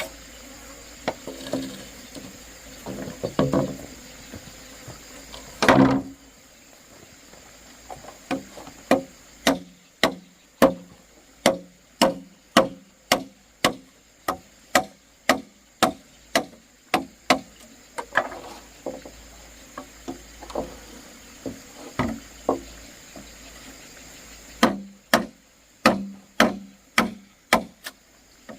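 Wood being struck over and over, chopping or hammering, in steady runs of about two blows a second with a sparser stretch in between. A steady high insect drone continues behind.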